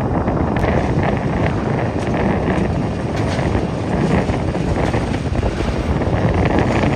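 Steady loud rumble of wind buffeting the microphone, mixed with jet airliner noise.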